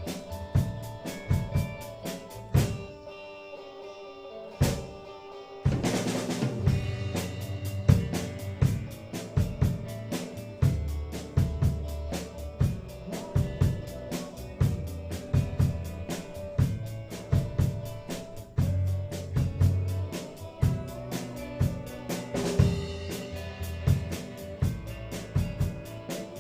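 A band playing with a drum kit driving a steady beat of snare and bass drum over sustained guitar chords. The band thins out about three seconds in, then comes back in full with a cymbal crash around six seconds, with another crash near the end.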